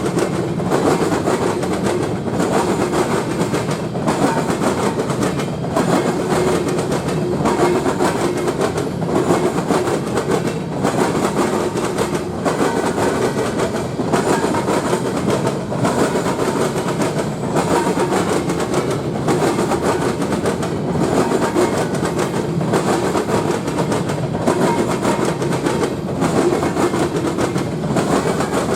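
A passing train's cars rolling by in a steady rumble, with the wheels clattering over rail joints every second or two.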